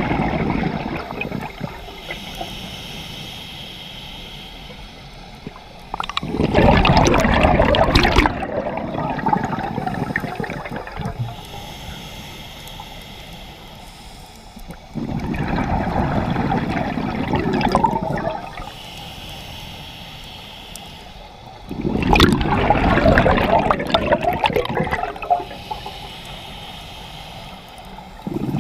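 Scuba regulator breathing heard underwater: a loud gush of exhaled bubbles about every seven seconds, with a fainter hiss of inhalation between the gushes.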